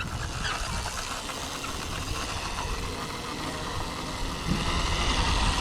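Steady rumble of riding on a dirt trail: wind on the microphone and tyres rolling over the ground, with no engine note from the electric bikes.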